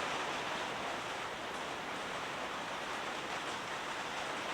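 Steady, even rush of heavy rain and a flooded river running in torrent.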